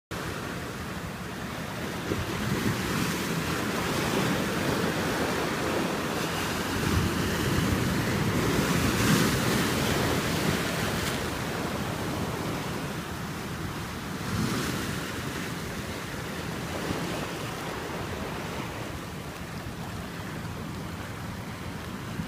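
Atlantic Ocean surf breaking on the beach: a continuous wash of water that swells as waves break, loudest about nine seconds in, with wind on the microphone.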